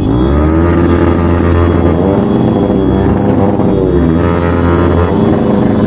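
Motorcycle engine running under way, its pitch rising as the throttle opens and dropping and climbing again a few times.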